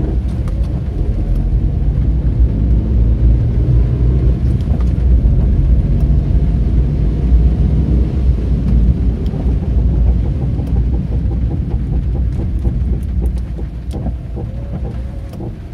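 Suzuki Wagon R (MH21S) on the move, heard from inside, with a low rumbling 'ga-ga-ga-ga' grinding from the front left as it brakes and slows; the noise dies down over the last few seconds. The brakes showed nothing wrong, and the owner suspects a worn drive shaft joint.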